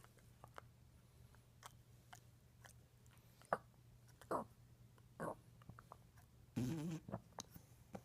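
English bulldog's quiet mouth noises: scattered small wet clicks and smacks, as in chewing or lip-smacking, with a few louder ones in the middle and a brief rough, snort-like breath near the end.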